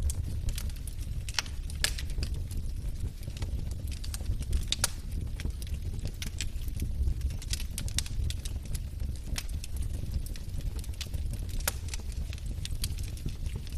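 Wood fire burning in a fireplace: logs crackling with irregular sharp pops and snaps over a steady low rumble.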